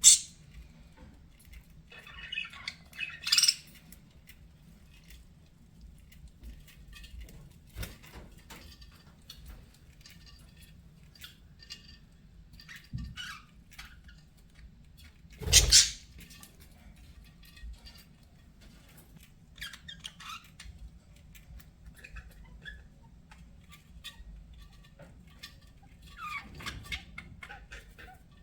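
Budgerigars chirping and chattering in short scattered calls, with louder bursts at the very start, around three seconds in, about halfway through and near the end.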